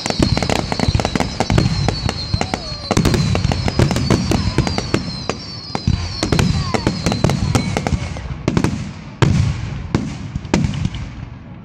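Fireworks display: aerial shells bursting in rapid bangs and crackles, with high falling whistles through the first half. The bangs thin out to a few separate loud ones in the last few seconds.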